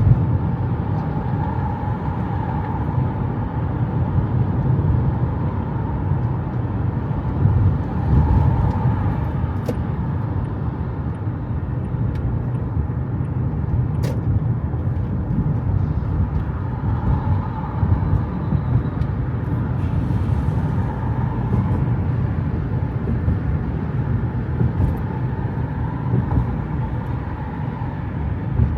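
Steady road and engine noise of a car, a low rumble throughout, with one sharp click about halfway through.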